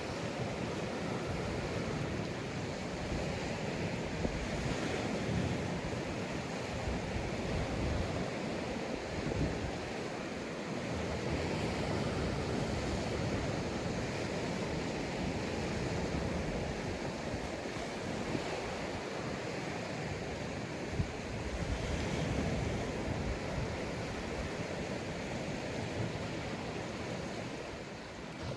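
Sea waves breaking and washing up a sandy beach: a continuous rushing surf that swells and eases.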